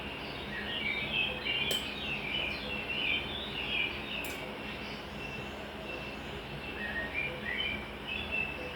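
Small birds chirping and twittering in quick, busy runs, with two sharp clicks about two and a half seconds apart, over a steady low hum.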